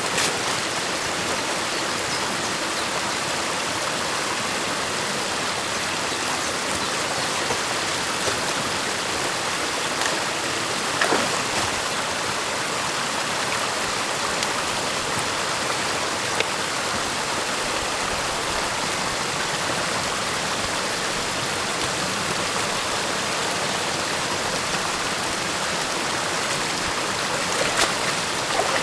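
Steady rush of stream water flowing, with a faint knock about eleven seconds in and again near the end.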